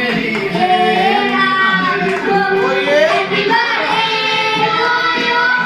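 A song: a high voice singing held, gliding notes over music.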